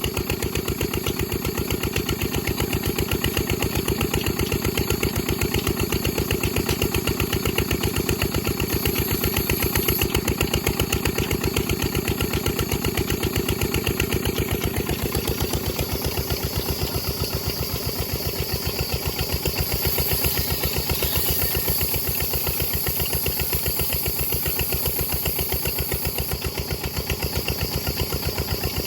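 Diesel engine running steadily, its firing pulses coming in a fast, even beat.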